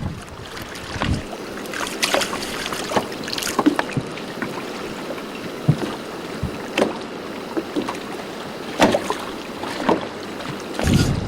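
Choppy water slapping and splashing irregularly against a moored boat's hull, over a steady hiss of wind and water. Wind buffets the microphone in the first second and again near the end.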